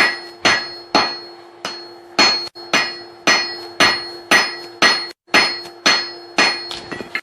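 Hand hammer striking hot steel on an anvil in a steady rhythm of about two blows a second, each blow ringing briefly, with a steady low hum underneath.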